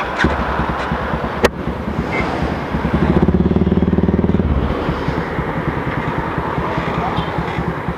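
Yamaha FZ25 motorcycle's single-cylinder engine running through an aftermarket exhaust, louder for about two seconds in the middle. A sharp click comes about one and a half seconds in.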